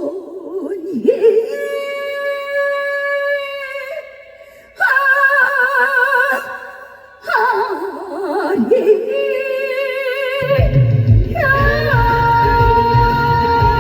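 A female trot singer holds long sung notes with wide vibrato, live with backing music. About two-thirds of the way through, heavy drums and bass come in under a sustained high tone.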